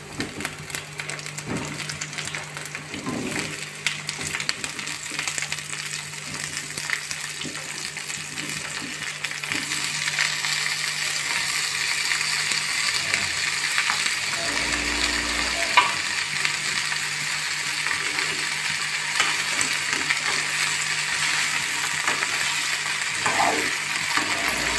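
Par-boiled cauliflower florets sizzling in hot oil in a kadai, a steady hiss that grows louder about ten seconds in, with a few small clicks.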